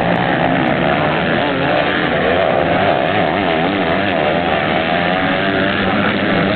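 Several motocross motorcycle engines racing, their pitch rising and falling as the riders rev and ease off, overlapping one another.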